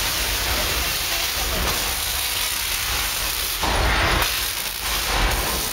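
Staged earthquake effects on a studio-tour set: a loud, steady rushing hiss over a low rumble.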